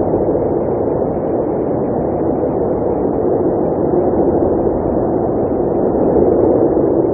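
Blizzard wind blowing steadily, a deep rushing noise with gentle swells in strength.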